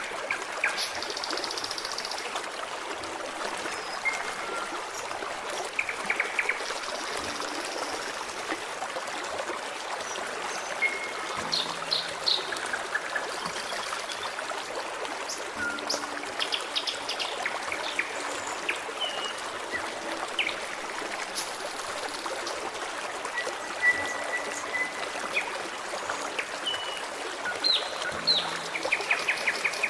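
Forest stream trickling and burbling steadily, with songbirds calling over it in short chirps, clear whistled notes and a few rapid trills.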